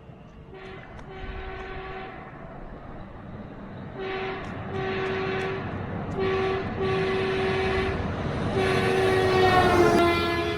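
Locomotive horn sounding a series of long and short blasts over the rising rumble of a passing train. Its pitch drops about a second before the end as it goes by.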